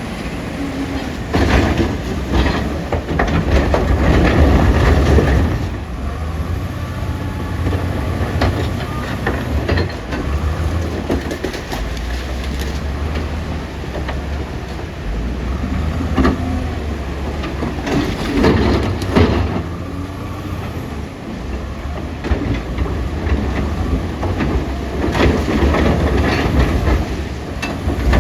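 Caterpillar 966D wheel loader's diesel engine running, with three spells of heavy rocks clattering and knocking as they are tipped into a dump truck's steel bed, near the start, in the middle and near the end.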